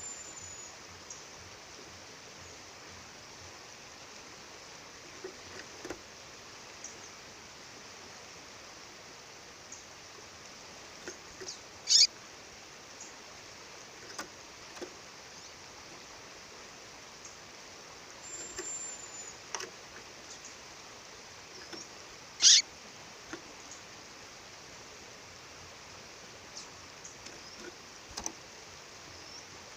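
Steady rush of a waterfall with a female songbird calling over it in short, high cheeps. Two of the calls are much louder, sharp chirps sweeping downward, one near the middle and one about three-quarters of the way through.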